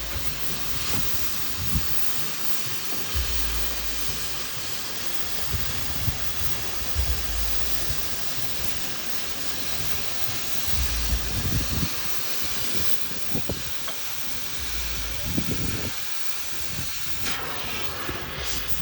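Oxy-fuel gas cutting torch hissing steadily, with occasional short low rumbles.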